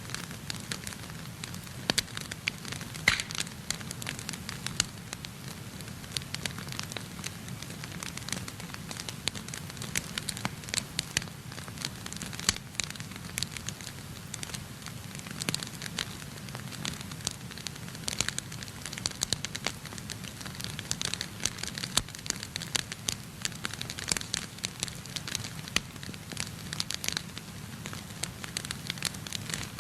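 Wood fire in a fireplace crackling, with frequent sharp, irregular pops and snaps over a steady low rush of burning.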